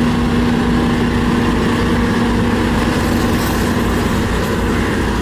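Heavy engine idling steadily, a low rumble with a constant hum.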